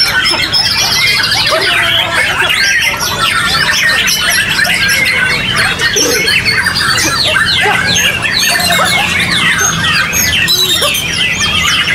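Several white-rumped shamas singing at once in competition: a dense, loud, overlapping chorus of rapid rising and falling whistles and trills, over a low background murmur.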